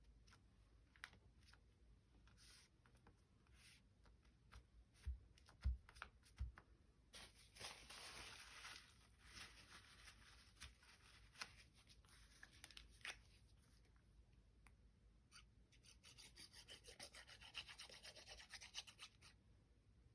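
Faint rustling and rubbing of paper being handled, with scattered light clicks and a few soft thumps about five to six and a half seconds in. Longer stretches of rubbing come around eight seconds in and again near the end.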